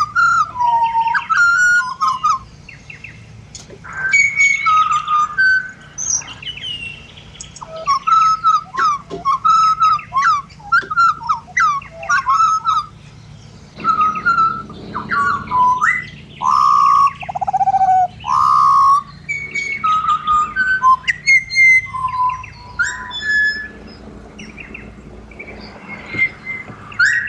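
Pied butcherbird song: a long run of clear, whistled notes that slide up and down in pitch, sung in short phrases with brief gaps between them.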